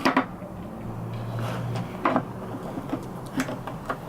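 Clicks and knocks of small tools and parts being handled on a workbench, with a low hum for about a second.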